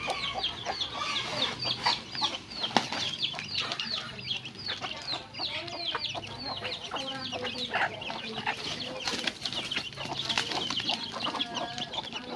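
Chickens clucking, with a dense, continuous chorus of quick, high, falling chirps over the lower clucks.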